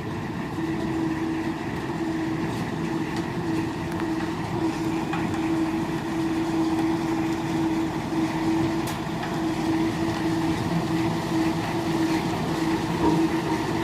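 Road roller engine running steadily, a constant mechanical rumble with a steady droning note.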